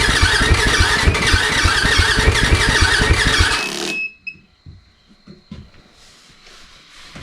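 2008 Yamaha WR450F's 450 cc single-cylinder four-stroke engine running loud through its muffler with the baffle removed, an even rapid firing pulse, then stopping abruptly about three and a half seconds in.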